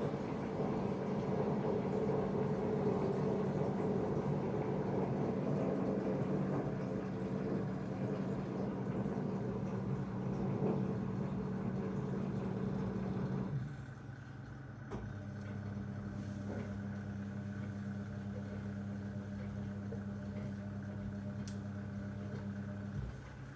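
Zanussi DL22 washing machine running a 90 °C wash. For about the first half a rushing water noise runs over a steady motor hum. Then the rush stops and only the steady hum goes on, cutting off just before the end.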